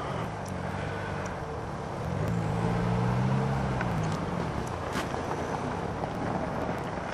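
Volkswagen Jetta turbo-diesel engine running under way on snow; its note rises and swells about two seconds in, then falls back by four seconds. Steady road noise runs underneath, with a few sharp clicks.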